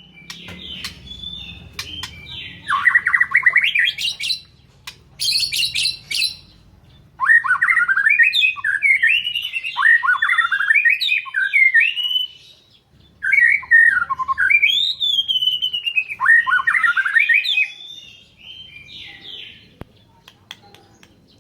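White-rumped shama (murai batu) singing: bouts of varied whistled phrases and fast rising and falling note runs, broken by short pauses. The longest runs come in the middle, and the song turns soft near the end.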